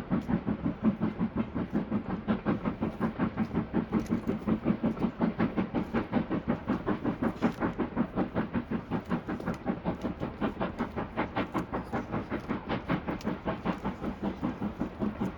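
Steam train running past with a rapid, even beat of about four a second, easing slightly toward the end.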